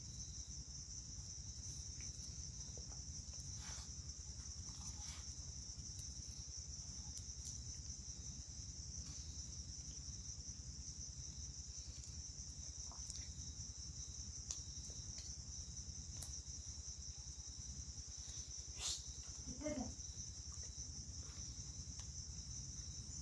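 Crickets chirping in a steady, unbroken chorus over a low steady rumble, with a few faint clicks and a brief call about two-thirds of the way through.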